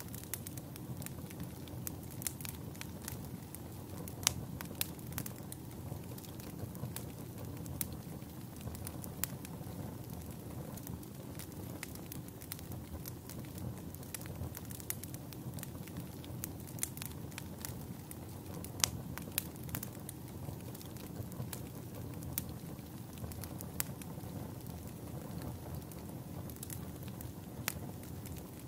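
Campfire burning: a steady low rush of flames with irregular sharp crackles and pops from the burning wood, a few of them louder.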